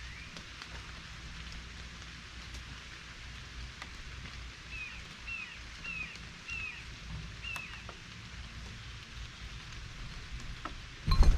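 Steady patter of rain, with a bird calling about six short down-slurred chirps in a row midway through. A sudden loud knock comes right at the end.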